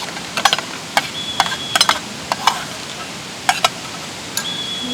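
Spoon clinking and scraping against a bowl as food is stirred and mixed, a string of sharp, irregular clicks, over the steady rush of a mountain stream. A brief high steady tone sounds twice.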